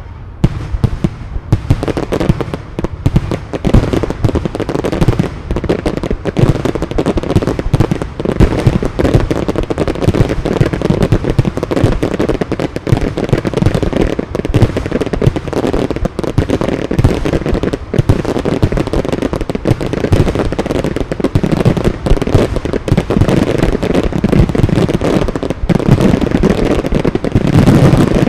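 Fireworks display in full swing: a dense, unbroken run of shell bursts, launch thumps and crackling, many bangs a second with no pause.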